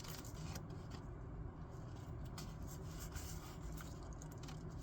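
Scissors cutting paper: faint, scattered scraping snips over a low steady hum.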